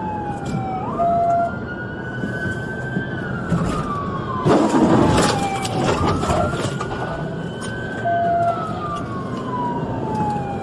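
Police car siren wailing, its pitch slowly rising and falling in long sweeps, over steady engine and road noise from the pursuing cruiser. A short, steady lower tone sounds twice, and a loud rush of noise comes about halfway through.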